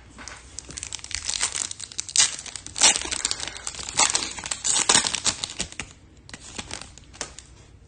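Foil wrapper of a Topps Chrome trading-card pack being torn open and crinkled in the hands: a dense crackle for about five seconds, then lighter rustling.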